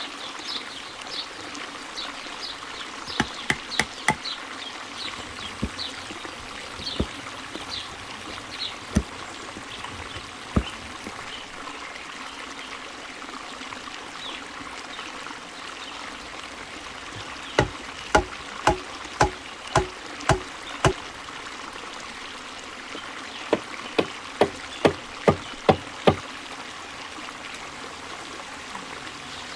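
Steady trickling water with repeated short falling chirps in the first third. Over it come runs of sharp knocks at about two a second: a few about three seconds in, then about seven and about six strokes in the second half.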